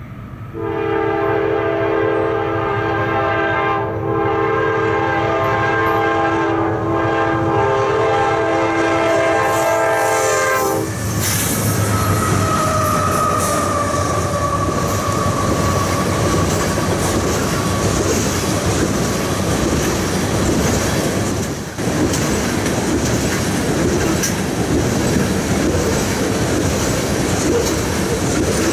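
Locomotive air horn sounding one long chord of several notes for about ten seconds. The train then passes close by with loud rumbling wheel noise and rail clickety-clack, and a fading tone falls in pitch as it goes by.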